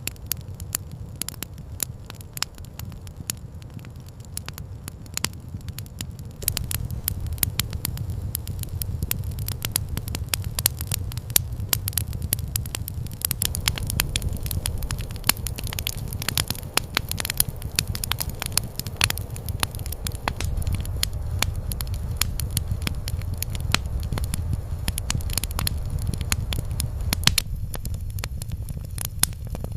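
Campfire crackling and popping with many sharp snaps over a steady low rumble, the crackle growing denser and louder about six seconds in.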